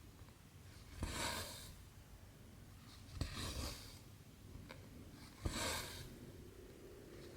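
Cross stitching by hand: a needle clicks through stamped 11-count cross-stitch fabric and cotton thread is drawn through it with a short swish, three stitches about two seconds apart.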